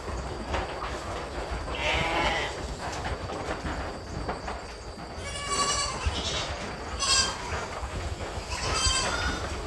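Goats bleating: several separate calls, most of them in the second half.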